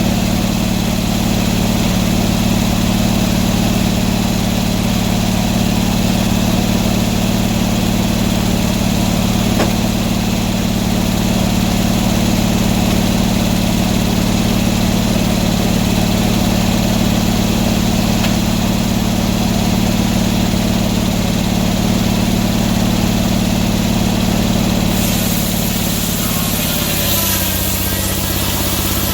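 An engine running steadily at a constant speed, then slowing to a lower speed near the end.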